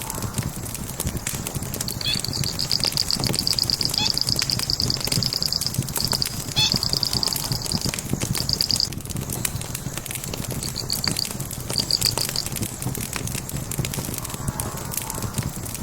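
Burning logs crackling and popping in a fireplace over a low steady rumble. A high, rapid trill also comes in several bursts, the longest lasting about four seconds.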